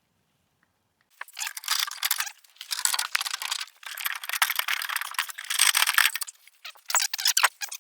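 Metal parts rattling, scraping and clinking, starting about a second in and running in dense bursts: stock catalytic converters being worked loose and pulled out of the exhaust.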